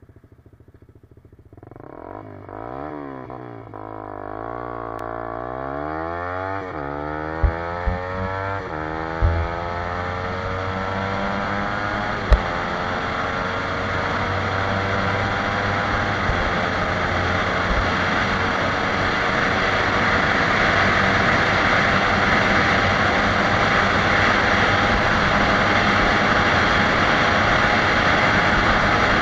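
Suzuki GSX-R150's single-cylinder engine at full throttle, accelerating hard from a standstill towards top speed. Its pitch climbs and falls back at each of several quick upshifts in the first dozen seconds, with a few sharp knocks. Then comes one long slow climb at high revs while wind rush builds and the whole sound grows louder.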